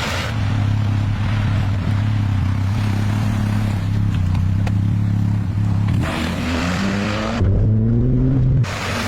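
Car engine running steadily, then revving up in rising pitch about six seconds in, holding high, and dropping off suddenly near the end.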